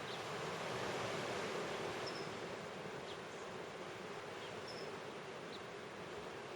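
A small bird giving short, high chirps, repeating about every two and a half seconds, over a steady rushing outdoor background that swells slightly about a second in.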